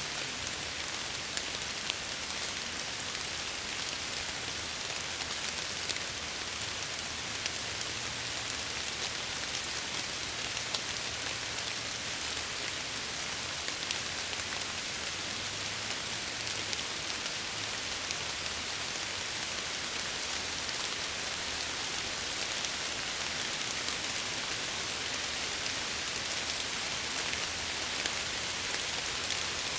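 Steady rain falling on window glass, a constant hiss with many small drop ticks over a faint low rumble.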